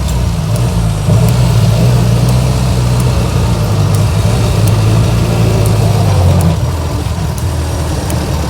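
1924 Austin Seven's small side-valve four-cylinder engine running just after a restart from a stall, its note steady and then dropping lower about six and a half seconds in.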